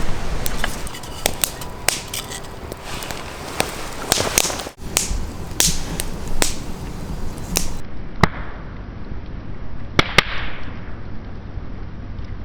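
Wood fire crackling, with irregular sharp pops, a few louder ones in the second half.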